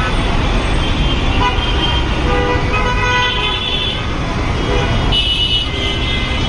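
Dense city road traffic running steadily, with vehicle horns tooting several times over it, the most prominent near the middle and again about five seconds in.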